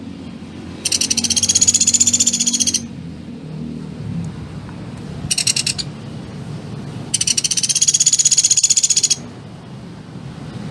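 A songbird giving a very fast, evenly pulsed high trill three times, two long phrases with a short one between, on a song-tutoring (masteran) recording, over a faint steady low hum.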